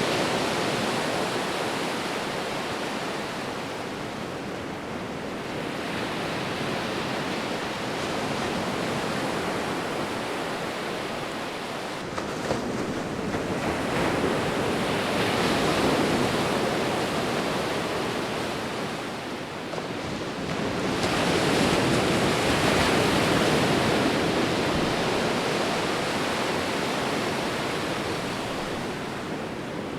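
Sea waves rolling in and washing on the shore, a continuous rushing that swells and eases every several seconds, with the biggest surges about halfway through and again a little after two-thirds of the way.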